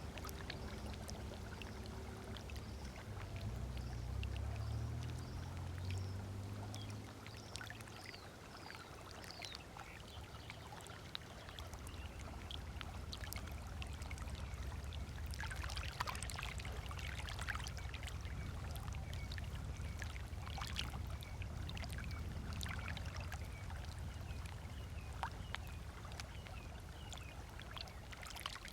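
Small waves lapping and splashing on a lake beach, with birds chirping on and off throughout. A boat's engine hums low during the first several seconds and fades out about seven seconds in.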